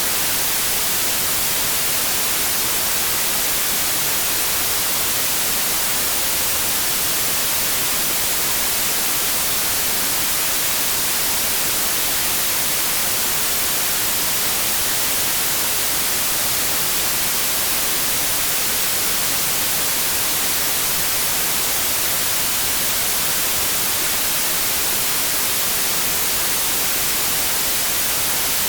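Steady electronic white noise: an even hiss with no tones or changes, strongest in the high frequencies.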